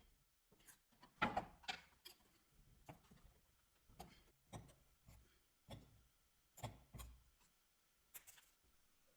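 A faint run of about a dozen light knocks and clicks at irregular intervals, the loudest pair a little over a second in: the sound of work being handled on a bench.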